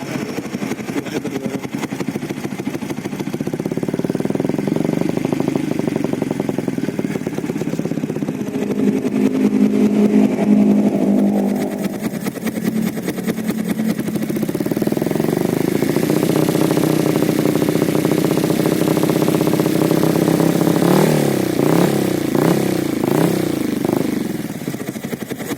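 Bored-up 177cc Yamaha Vixion single-cylinder engine revving through a DX Generation Sphere Oval aftermarket exhaust, the revs rising and falling and held up twice. Near the end it gives a run of quick throttle blips.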